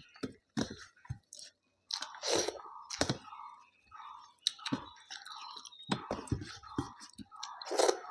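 Close-up chewing of rice, chicken and salad: irregular wet mouth smacks and crunchy bites, with a few louder crunches about two to three seconds in and again near the end.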